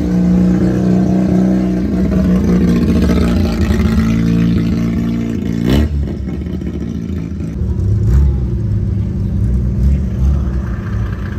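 Car engines running as cars pull away from the meet, with an engine revving up about six seconds in, then a lower engine drone.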